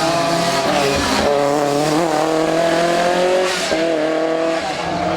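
Lancia 037 Group B rally car's supercharged 2.1-litre four-cylinder engine running hard at speed, its pitch climbing and dropping through gear changes and lifts, with short breaks about a second in and again past the middle.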